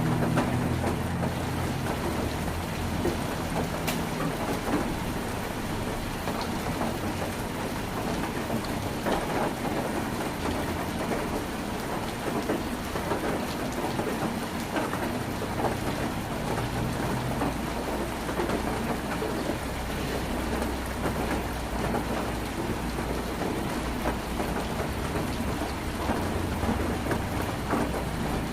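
Heavy rain drumming steadily on a tin roof, a dense patter of countless small drop impacts. A low rumble dies away in the first second or two.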